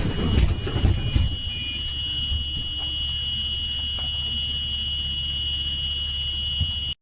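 Clattering noise in the first second, then a continuous high-pitched electronic alarm tone over a low vehicle rumble. Everything cuts off abruptly near the end.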